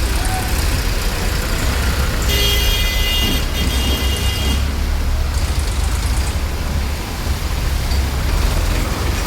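Street traffic noise with a steady low rumble. A few seconds in, a high-pitched tone sounds for about two seconds.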